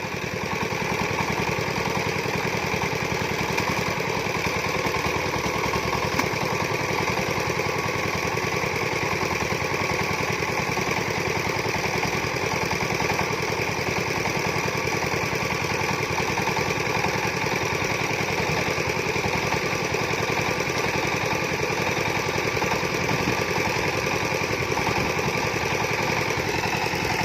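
Diesel farm engine running steadily at a constant speed, with a fast, even knocking beat.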